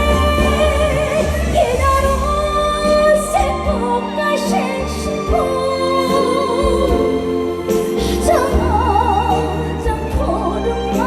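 A woman singing a slow trot ballad live with vibrato over a band accompaniment, heard through the PA.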